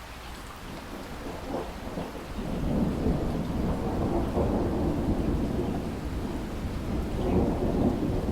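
Thunder rumbling over steady heavy rain. The rumble builds from about a second in and rolls on, swelling again near the end.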